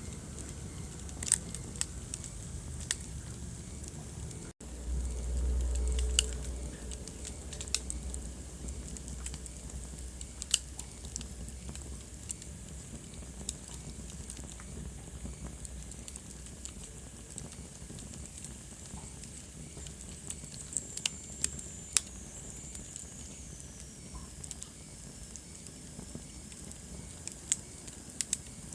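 Wood fire burning in a fireplace, crackling with sharp pops scattered throughout over a steady hiss. Just under five seconds in the sound cuts out for an instant and a low rumble swells for about two seconds; later a faint high whistle falls slowly in pitch over a few seconds.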